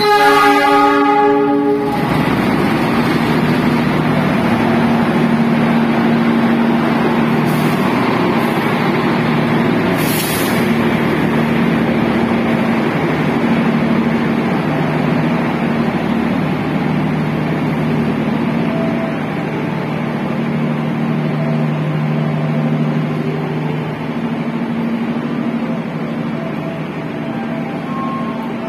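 Diesel-electric locomotive horn sounding one blast of about two seconds as a passenger train arrives, followed by the steady running of the locomotive's engine and the train rolling slowly past.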